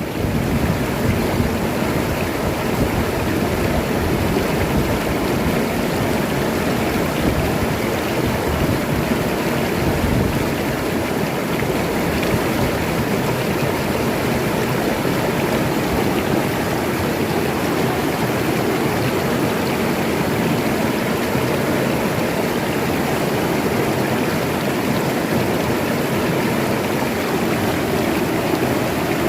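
Oyo River water rushing steadily over its bed, a continuous loud flow with no break.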